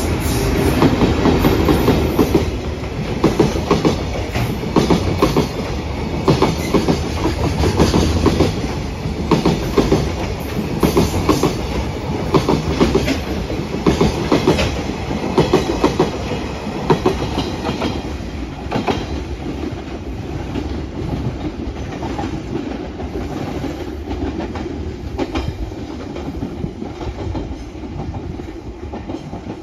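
Container freight train hauled by an EF81 electric locomotive passing, the wheels of the container flatcars clattering over rail joints in a regular clickety-clack over a steady rumble. The clatter fades in the last third as the train pulls away.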